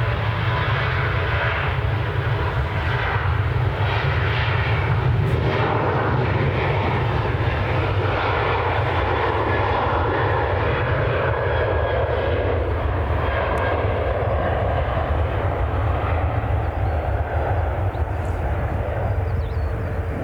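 Jet engines of an Airbus A320 airliner on final approach to land: a loud, steady rush over a deep rumble, swelling slightly around the middle.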